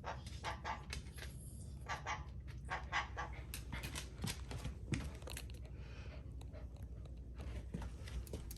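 A pet dog panting, with a rapid run of light scratching and clicking sounds.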